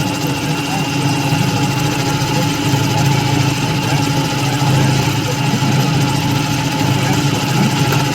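A machine tool running at a steady speed: a constant mechanical hum with a few fixed tones over an even whir, unchanging throughout.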